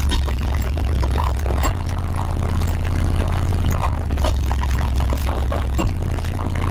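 Car audio subwoofers playing deep bass, the low notes shifting every second or so, with clicks and rattles on top.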